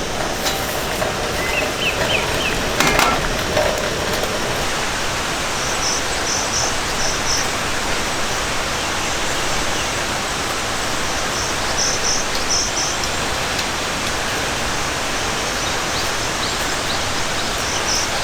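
Steady rain falling, an even dense hiss. A bird calls a short phrase of four quick high notes, repeated about every six seconds.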